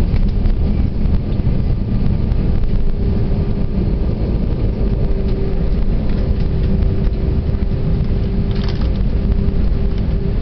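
Cabin noise inside an Airbus A320 on the ground just after landing: a loud, steady low rumble, with a steady hum that comes in more strongly about three seconds in.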